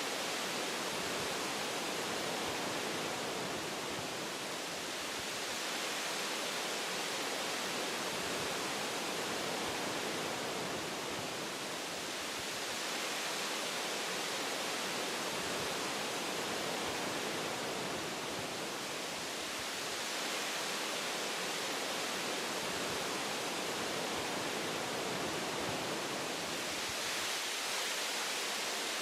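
Wind rushing through forest tree branches: a steady hiss that swells and eases slowly every few seconds.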